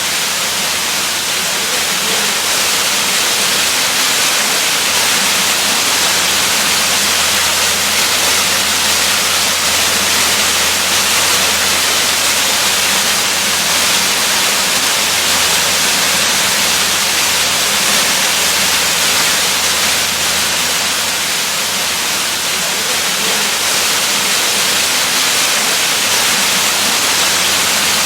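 Waterfall: water pouring steadily in an even, loud rush with no breaks.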